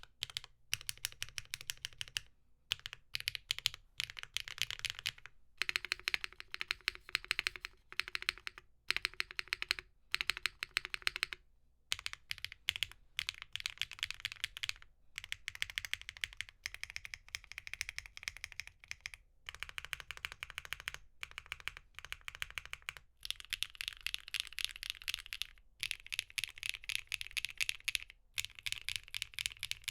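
Typing on a mechanical keyboard: fast, bright, clacky keystrokes in short stretches of a few seconds, separated by brief silent cuts.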